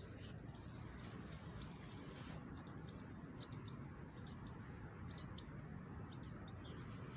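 A small bird chirping repeatedly, with short high chirps about twice a second, over a steady low background rumble.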